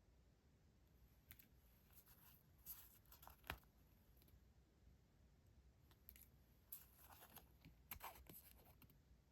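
Paper stationery being handled: faint, crisp paper rustles and small taps in scattered bursts, the sharpest a little over three seconds in.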